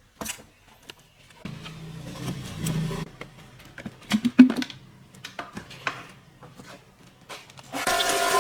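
Scattered sharp clicks, taps and knocks of hard objects being handled, with a rustling, scraping stretch about two seconds in and the loudest knocks about four seconds in. Music comes in near the end.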